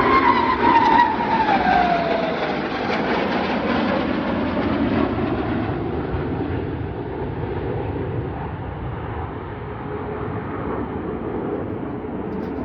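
Jet aircraft flying past. Its engine whine drops in pitch in the first two seconds as it goes by, then the roar slowly fades away.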